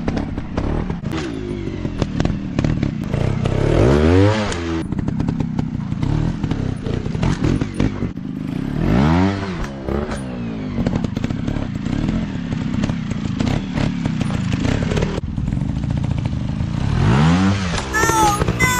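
Dirt bike engines running, revving up and back down three times, a few seconds apart, with rattling and knocks throughout.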